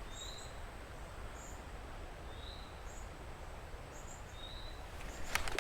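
Creekside outdoor ambience: a steady hiss of background noise with short high-pitched chirps repeating about once a second. A few sharp clicks come near the end.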